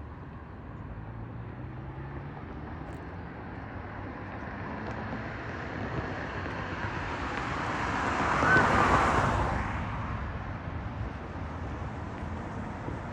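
A vehicle passing by: its noise builds over several seconds, peaks a little past the middle, then fades away over a steady outdoor background.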